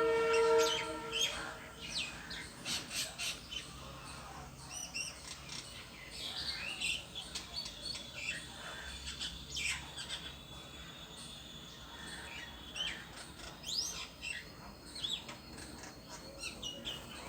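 Bird calling in a tree: a lower, pitched call lasting about a second at the start, then many short chirps and quick rising whistles throughout.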